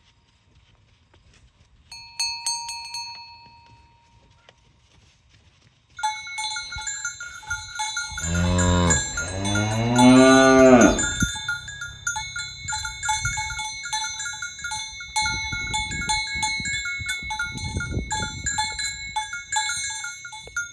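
Cowbells on walking cattle: a single bell rings out near two seconds in, then from about six seconds the bells clank continuously. About halfway through, a cow gives one long moo, the loudest sound.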